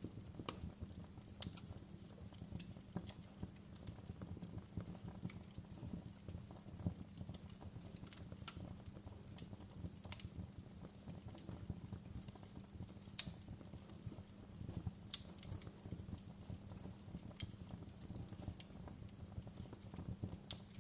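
Wood fire crackling in a fireplace: irregular sharp pops and snaps over a low steady rumble of the flames, with one louder pop about 13 seconds in.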